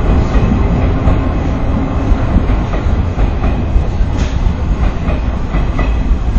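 JR Shikoku Yosan Line local train moving along the platform with a steady running rumble, its wheels clacking irregularly over rail joints and points, more often in the second half.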